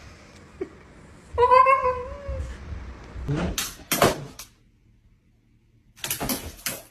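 A pet's drawn-out, whine-like vocal call, starting about a second and a half in and lasting about a second, its pitch sagging slightly. It is followed by a few short noisy rustles and hissing bursts.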